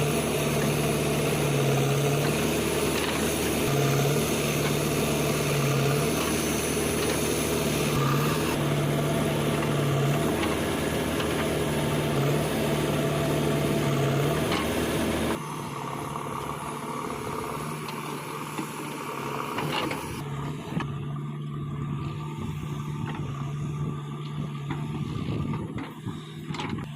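Heavy diesel engine of earth-moving machinery running steadily with a low hum, dropping abruptly to a quieter level about halfway through.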